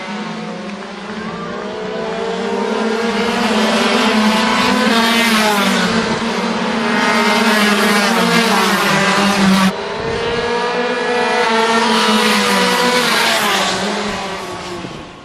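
Several 50cc two-stroke racing motorcycles running at high revs on track, their engine notes rising and falling against each other. The sound breaks off abruptly about ten seconds in, picks up again and fades out at the end.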